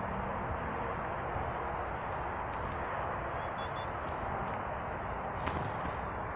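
Small birds at a feeder giving a quick run of high chirps about three and a half seconds in, over a steady rushing noise, with a single sharp click near the end.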